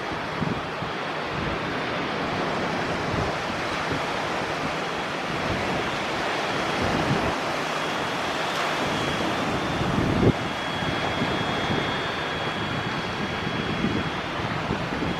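Wind buffeting the microphone over a steady rushing noise, with a faint high whine coming in about halfway through.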